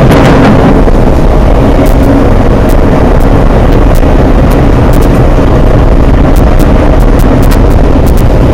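Steady, loud rumble and rush of an Amtrak passenger train at speed, heard from inside the coach, with scattered faint high ticks over it.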